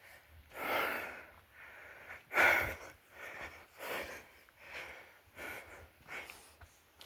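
A person breathing hard, with quick audible in-and-out breaths about every three-quarters of a second. One sharper puff comes about two and a half seconds in.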